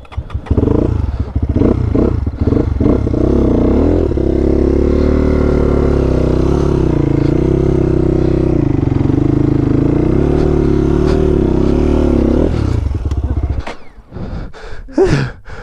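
Dirt bike engine revving in a few short blips, then running steadily with a slightly wavering pitch for about eight seconds before dying away near the end.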